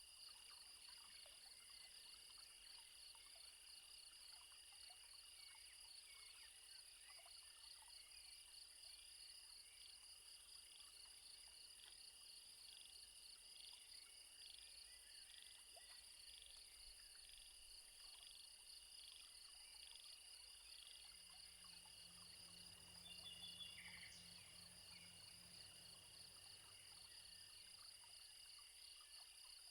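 Faint insect chorus: steady high-pitched trilling, one layer pulsing rapidly. A low hum joins about two-thirds of the way through, with a brief chirp soon after.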